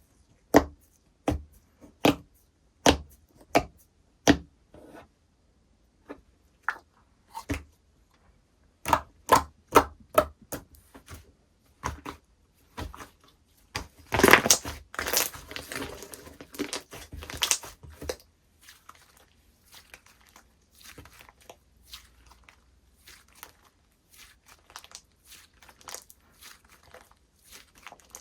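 Slime being worked by hand: a run of sharp pops and clicks, a dense stretch of crackling in the middle, then softer scattered crackles.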